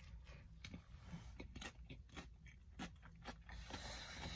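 Faint close-up chewing of a sandwich: irregular soft mouth clicks and bites.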